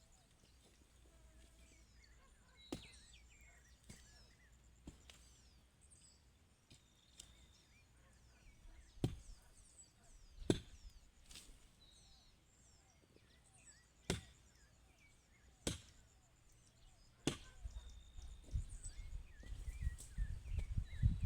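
A hand tool chopping into the ground or brush in sharp single strikes, about nine of them, coming every one to four seconds with pauses between. Near the end a low rumble builds.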